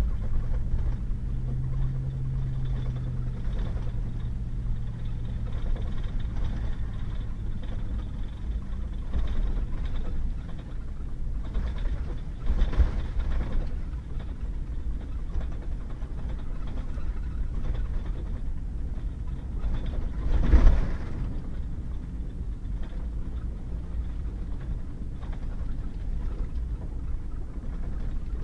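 Pickup truck driving on a wet gravel backroad: steady engine and tyre rumble, the engine note rising briefly in the first few seconds and then easing off. A jolt about thirteen seconds in and a harder one about twenty seconds in, the loudest sound.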